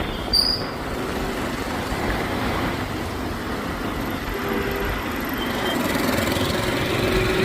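Street traffic noise: a steady rumble of passing vehicles, with a brief sharp high sound about half a second in.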